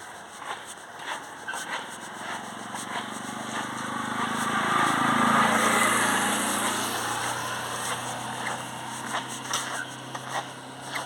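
A motor vehicle passing by: its noise swells to a peak about halfway through and then fades away, the engine note dropping in pitch as it goes past.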